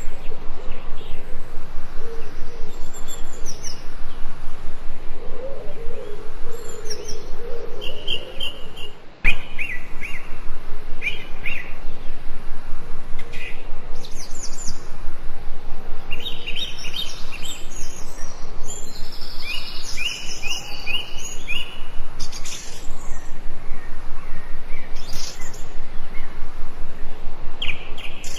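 Several forest songbirds chirping and trilling in short repeated phrases over a steady background hiss, with a few lower calls early on. A sharp click cuts in about nine seconds in.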